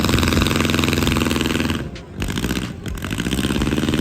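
Demolition derby car engine running close by, a fast, rattling pulse that drops away briefly twice around the middle.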